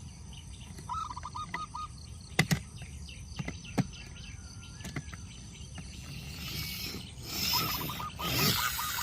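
A bird's call, a short run of rapid chirps, repeated twice, with scattered sharp clicks and knocks between. Rustling noise grows louder near the end.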